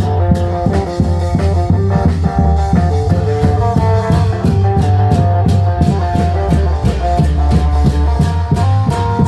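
Isan klong yao band playing live: long drums and percussion beating an even, driving rhythm under a plucked-string melody in the style of an electric phin, over a heavy steady bass.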